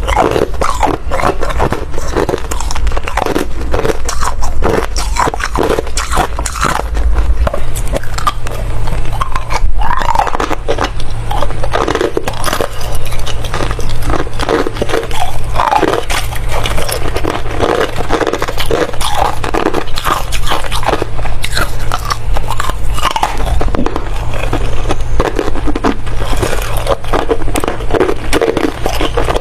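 Hard ice crunched and chewed close to the microphone: dense, crackly bites and grinding with no pause, over a steady low hum.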